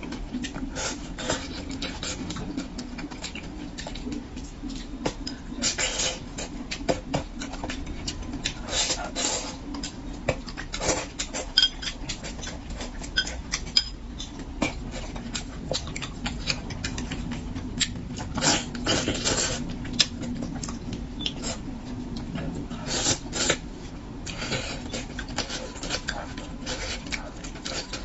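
Close-miked mukbang eating sounds: wet chewing, lip smacks and quick mouth clicks as braised carp is eaten, over a faint steady hum.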